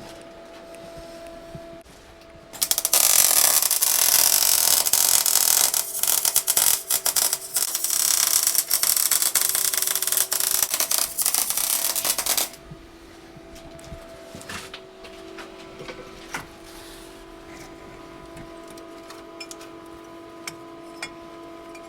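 An electric welding arc crackling and hissing steadily for about ten seconds as a weld is laid on a steel engine mount, starting and stopping abruptly. It is followed by faint scattered clicks and taps over a low steady hum.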